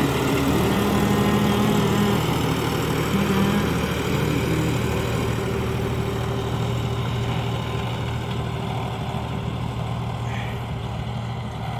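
John Deere 5405 CRDi tractor's common-rail diesel engine running steadily, growing slightly quieter toward the end.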